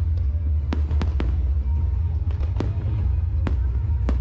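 Aerial fireworks bursting: a scattered series of sharp bangs and cracks, some coming in quick pairs, over a steady low rumble.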